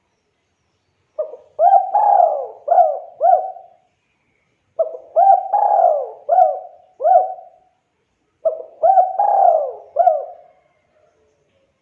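Spotted dove cooing: three repeated phrases of about five coos each, a few seconds apart, with short pauses between them.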